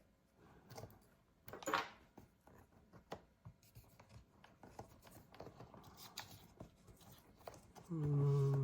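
Small clicks and scrapes of tools and parts during the disassembly of a MacBook Pro laptop, with a louder scrape about two seconds in. A short, steady low hum comes near the end.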